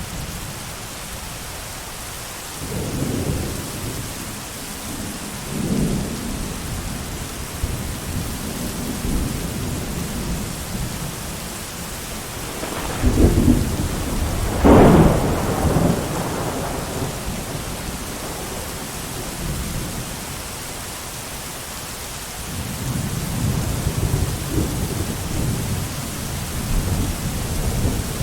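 Steady heavy rain with thunder rumbling several times. The loudest thunderclap, a sharp peal, comes about halfway through, and a long low rumble builds near the end.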